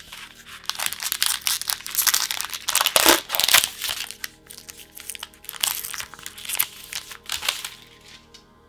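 Plastic packaging of a card-sleeve pack crinkling and crackling as it is handled and opened by hand, in dense irregular bursts. It is loudest a few seconds in and dies away near the end.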